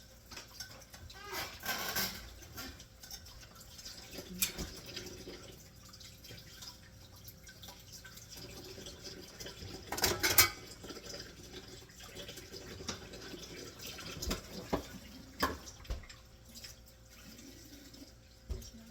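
Kitchen sink water running and splashing in short spells, about two seconds in and again around ten seconds, with scattered knocks and clinks in between.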